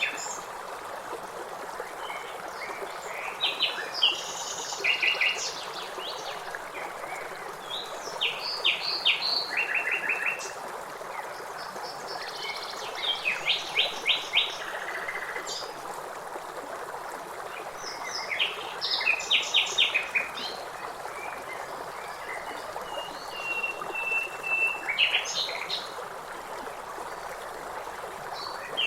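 Songbirds singing over the steady rush of flowing river water. Short phrases of quick repeated notes come every few seconds, and near the end one bird holds a single steady whistle for about two seconds.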